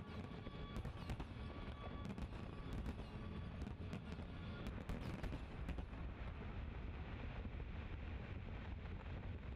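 Fireworks display: aerial shells bursting in a quick, irregular run of bangs over a continuous low rumble, the bangs thinning out after about six seconds.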